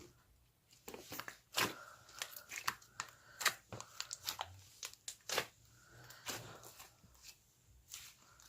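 Slime being squished and poked by hand, giving irregular sticky clicks and crackles, several a second.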